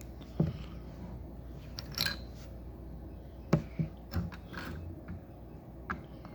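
LEGO plastic bricks being handled and pressed together: a handful of sharp clicks and knocks spread irregularly, the strongest about half a second in and again past three seconds.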